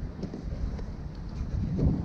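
Wind buffeting the microphone: an uneven low rumble that swells in a gust near the end, with a few faint clicks.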